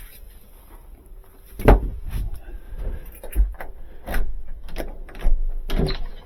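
Irregular knocks and clunks of hard objects being handled, about half a dozen over several seconds, the loudest one near the start.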